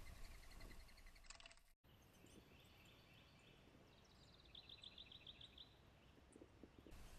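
Faint outdoor ambience with a small bird's quick high trill, a rapid run of notes that drops slightly in pitch, about four to five seconds in. Before that, a faint rapid high pulsing breaks off in a brief dropout to silence just under two seconds in.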